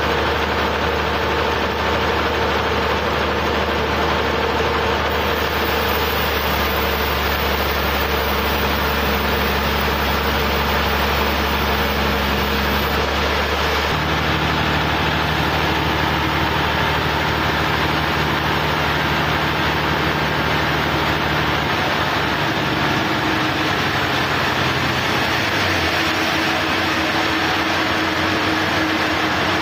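Sawmill engine running steadily under a constant mechanical noise. Its note changes about halfway through, and one tone slides lower near the end.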